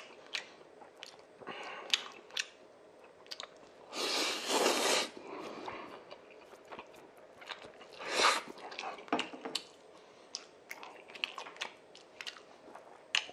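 A person chewing a mouthful of black-bean instant noodles and beef, with many small wet smacks and clicks. Noodles are slurped loudly for about a second, four seconds in, and again briefly near eight seconds.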